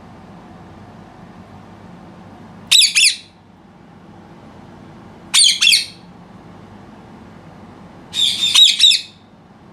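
Indian ringneck parrot squawking: three shrill calls a few seconds apart, the last one longer than the others.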